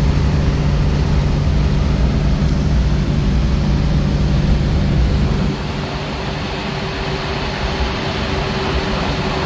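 Engine and road noise inside the cabin of a 1967 Camaro cruising at highway speed: a steady low drone that drops somewhat in loudness about five and a half seconds in.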